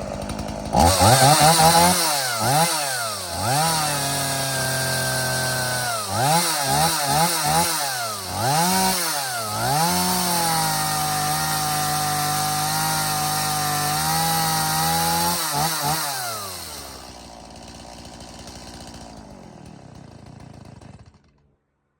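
Stihl two-stroke chainsaw running with a freshly fitted spark plug, its throttle blipped repeatedly so the engine revs up and down sharply. It is held at high revs twice for several seconds, then drops back to a quieter idle and cuts off near the end.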